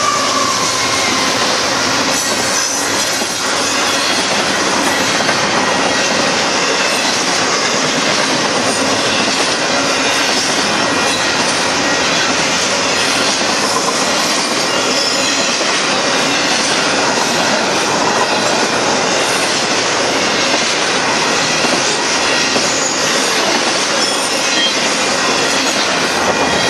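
Loaded double-stack container freight cars rolling past: a loud, steady rumble and rattle of steel wheels on rail, with faint high wheel squeal now and then.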